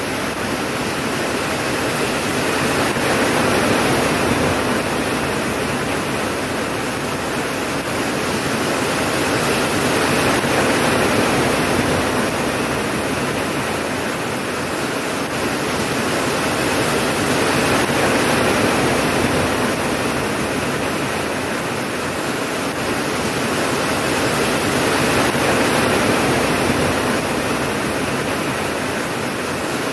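Steady heavy rain, a dense even hiss that swells and eases gently every several seconds, with no thunderclap.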